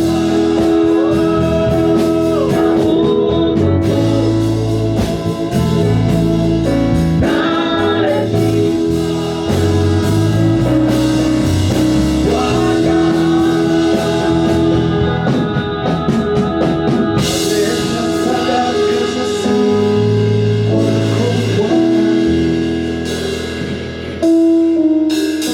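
Gospel praise-and-worship music: a band with drum kit and guitar playing steadily under singing voices.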